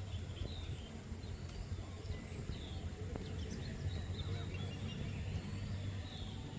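Small birds chirping, many short scattered calls, over a steady low rumble and a constant high hiss.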